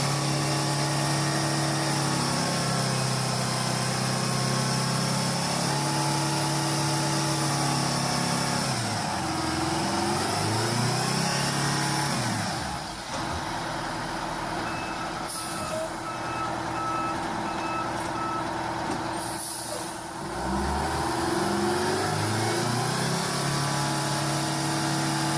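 Heavy truck's diesel engine running under load, its pitch dropping and rising as the throttle changes, over a steady high hiss. Midway there is a run of evenly spaced beeps and a couple of short hisses of air.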